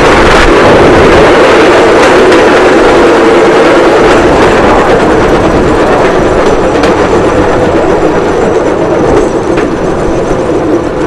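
Bamboo train (norry) running along the rail: a steady drone and rattle, with the wheels clicking over rail joints now and then. It gradually gets quieter over the second half.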